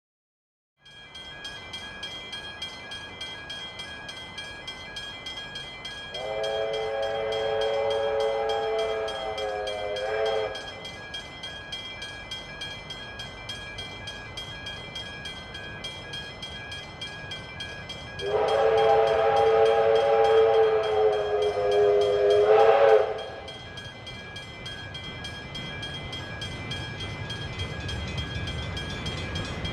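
Steam locomotive R761, a Victorian Railways R class, sounding its whistle in two long blasts over the steady noise of the train. The first blast comes about six seconds in and lasts about four seconds. The second, louder one comes about eighteen seconds in and lasts nearly five. Each blast is a chord of several notes.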